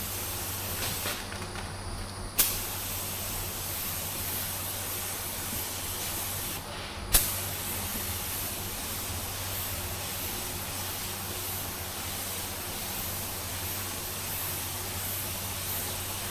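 Paint spray gun hissing in long passes of air and paint, with short breaks and the trigger pulled again about two and a half seconds in and again about seven seconds in, each restart beginning with a sharp burst of air.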